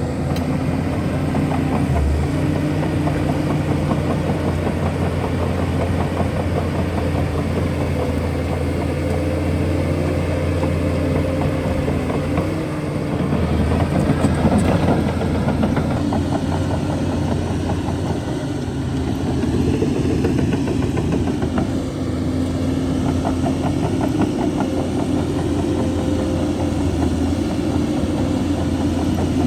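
Shantui DH17C2 bulldozer's diesel engine running steadily as it works, its pitch shifting slightly now and then.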